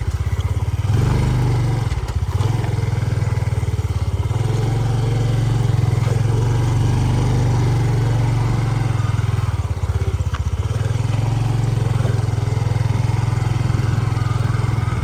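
Yamaha PG-1 motorbike's small single-cylinder four-stroke engine running steadily under way. The engine note shifts briefly a few times, near the start, about two seconds in and around ten seconds in.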